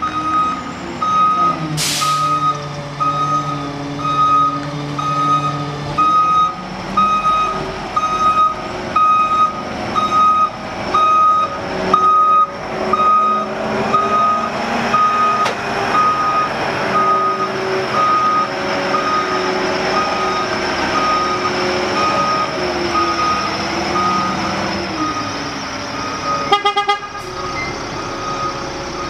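Garbage truck backing up, its reversing alarm beeping steadily about once a second over the diesel engine, which rises and falls in pitch. A short hiss of air comes about two seconds in.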